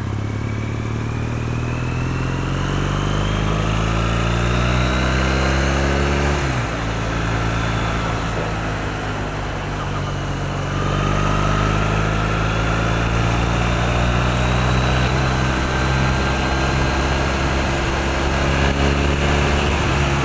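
2008 Triumph Bonneville's parallel-twin engine pulling under acceleration on the road, its pitch rising steadily until a sudden drop at a gear change about six seconds in, then climbing gently again, with steady wind rush.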